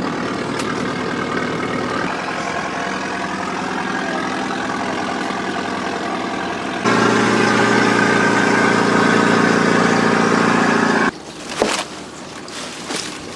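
Fishing boat's motor running steadily with a droning hum. About seven seconds in it jumps sharply louder, then drops away abruptly about four seconds later, leaving a quieter background with a few knocks.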